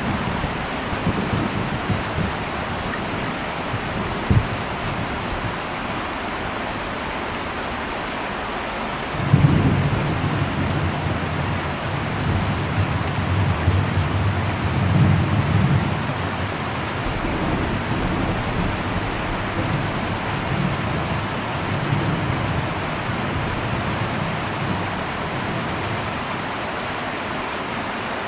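Heavy rain falling on an old metal roof, a steady hiss. A low rumble of thunder comes in suddenly about nine seconds in and rolls on for several seconds, then fades.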